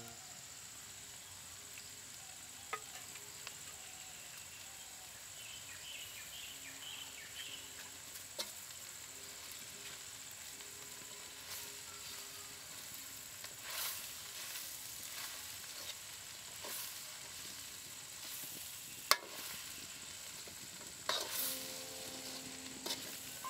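Soft sizzling of food cooking, with stirring and scattered light utensil knocks; one sharp click about three-quarters of the way through is the loudest sound.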